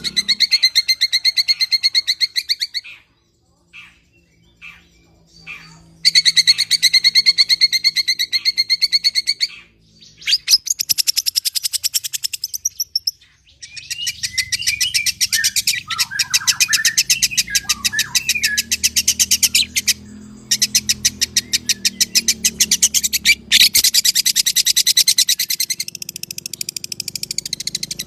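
Long-tailed shrike (pentet) singing in a lively way: long runs of fast, harsh chattering notes lasting several seconds each, with two short pauses and a few lower gliding whistles mixed in, as mimicked calls of other birds.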